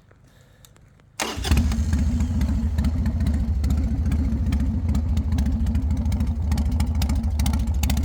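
Harley-Davidson Sportster's V-twin engine starting about a second in, then idling with a steady, lumpy beat.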